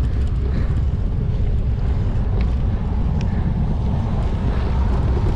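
Strong wind buffeting the microphone of a camera on a moving bicycle, a loud, steady low rumble, as the rider pedals into a strong headwind.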